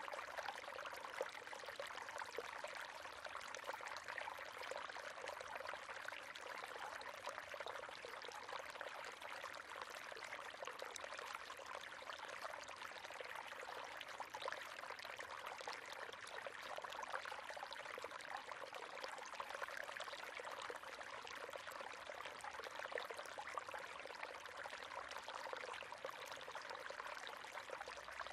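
River water flowing and splashing over rocks, a steady babbling rush that holds even throughout.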